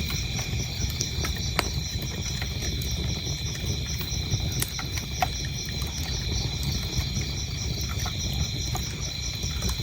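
Wood fire crackling with scattered sharp pops over a low steady rumble, and crickets chirping in an even, continuous rhythm.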